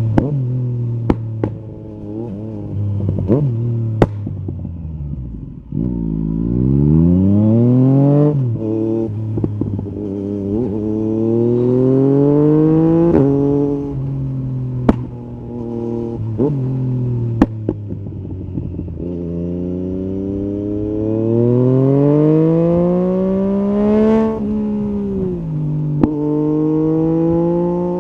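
Yamaha MT-09 SP's inline three-cylinder engine through an Akrapovic carbon Racing-Line exhaust with the dB killer removed, revving up through the gears with repeated rising pitch and drops at each shift. It slows to a low rumble about six seconds in, then pulls away again. Several sharp cracks stand out over the engine.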